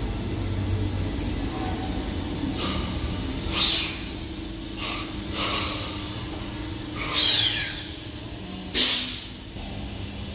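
Electric suburban train moving off from a station platform: a steady low rumble and hum, broken by repeated short sharp hisses of air, the loudest just before the end.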